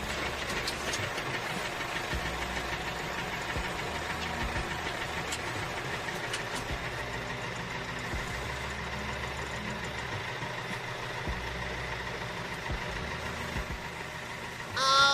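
A small motor running steadily with a hum and a faint whine. Just before the end, a short pitched sound rises and falls.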